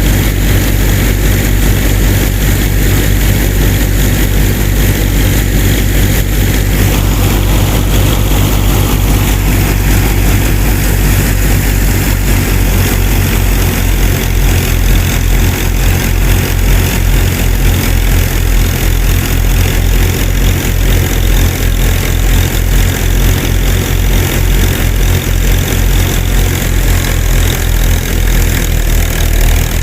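A small motor running steadily and loud, with a low hum; about halfway through, a fast, even low pulsing joins it.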